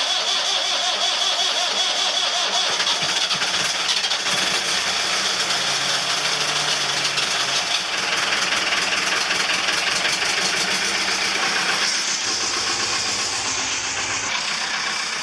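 Perkins 4.236 four-cylinder marine diesel running steadily, the engine having been brought back after three months submerged in salt water and now left running to dry out.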